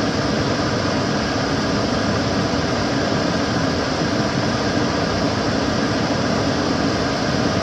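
Kitchen cooker hood extractor fan running steadily: an even rush of air with a low hum underneath, with no change in pitch or level.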